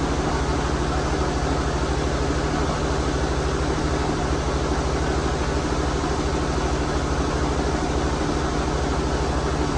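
Sawmill machinery running steadily: an even low hum with a hiss above it, holding the same pitch and loudness throughout.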